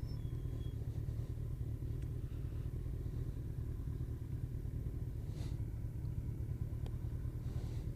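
Kawasaki ZZR1400 inline-four motorcycle engine running steadily with an even low rumble.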